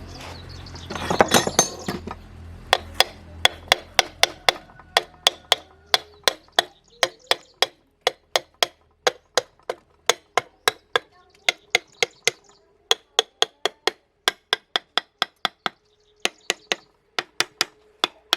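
A hammer striking metal, a quick flurry of blows about a second in, then steady single strikes about two or three a second with a couple of short pauses.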